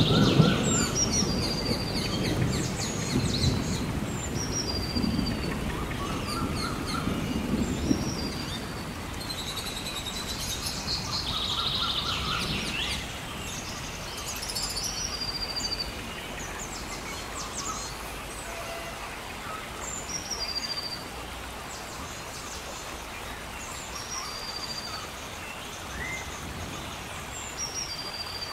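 Steady rain with a low rumble of thunder that fades away over the first several seconds. Birds chirp throughout, short high calls repeating every couple of seconds.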